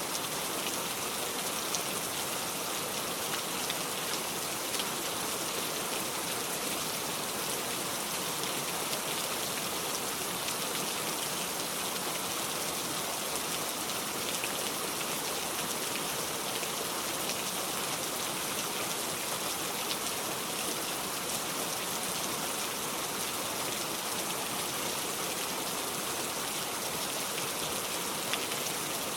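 Steady rain falling without letup, a dense hiss dotted with many small drop ticks.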